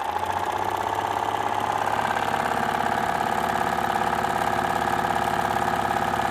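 A 1927 Singer Class 99 sewing machine, model BU7A, running steadily under its knee-lever control: an electric motor hum with the fast, even clatter of the needle mechanism. The machine is freshly cleaned and oiled.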